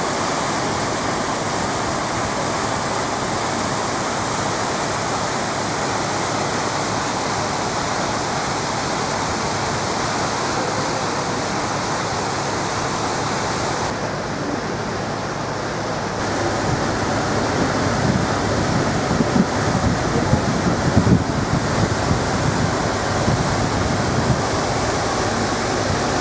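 Steady rushing of water and wind, with gusts of wind buffeting the microphone and rumbling low in the second half.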